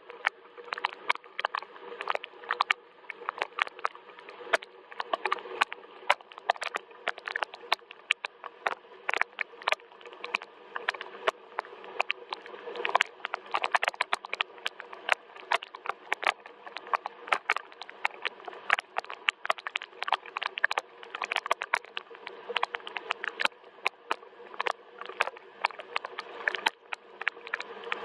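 Gentle rain falling steadily: a dense, irregular run of sharp taps from individual drops over a soft hiss.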